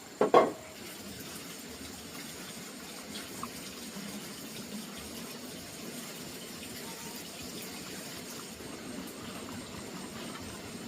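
Two or three quick loud knocks about half a second in, then water running steadily.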